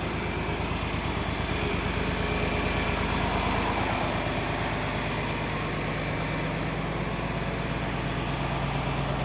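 John Deere tractor engine idling steadily, swelling slightly a few seconds in.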